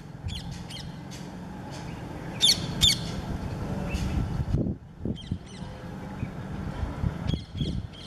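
Birds calling: short, harsh, high calls in small clusters every couple of seconds, the loudest two about two and a half and three seconds in, over a steady low rumble.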